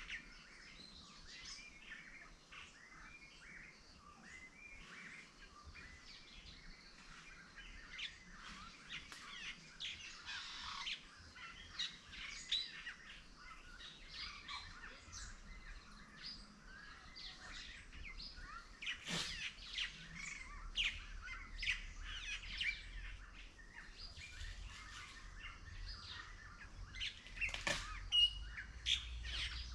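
Several wild birds chirping and calling together, many short overlapping chirps and trills, with a low rumble underneath that grows in the second half.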